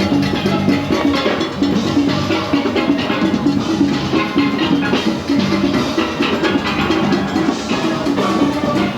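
Carnival road music: steelpans playing a fast rhythmic tune over drums and percussion.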